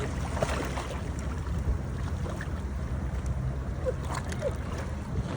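Motorboat engine running steadily, a low even rumble.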